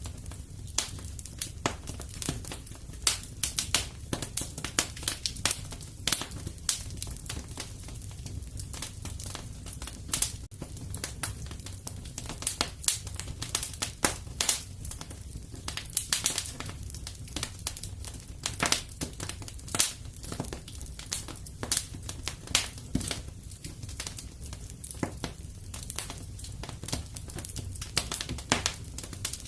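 Fireplace fire crackling: dense, irregular sharp pops and snaps over a low steady rumble.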